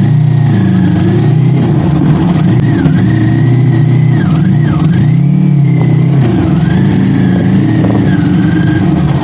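Kawasaki Ninja 400's parallel-twin engine running on the move, its pitch rising and falling as the throttle opens and closes, over steady rushing noise.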